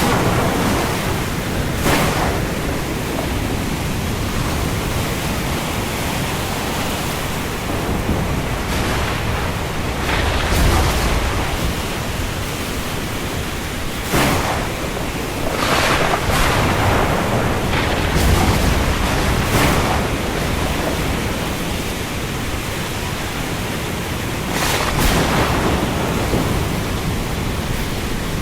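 Steady heavy rain falling on the sea, a dense hiss with several short louder surges over it.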